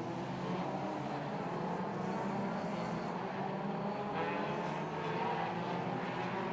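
2-litre hot rod race cars running on the oval together, several engine notes overlapping in a steady, continuous sound.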